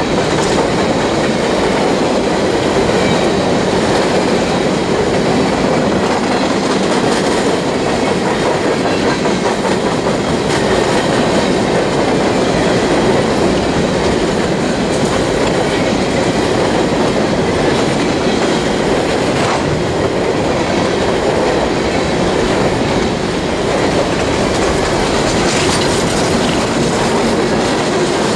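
Freight train of open-top hopper cars rolling past close by: a steady, loud rumble of steel wheels on rail with a clickety-clack over the rail joints.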